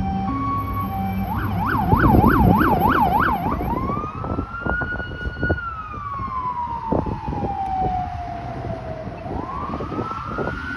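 Police SUV emergency siren changing tones. It starts on an alternating two-tone with a deep low tone underneath it from the Howler low-frequency siren. About a second and a half in it switches to a rapid yelp. Around four seconds in it becomes a slow wail that rises, falls over about five seconds and starts rising again near the end.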